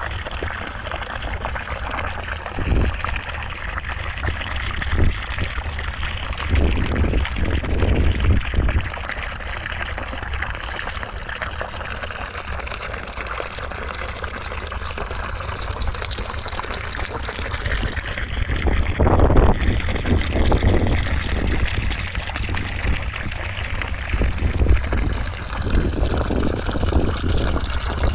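Steady rushing white noise, an even hiss across the whole range whose tone wavers slowly.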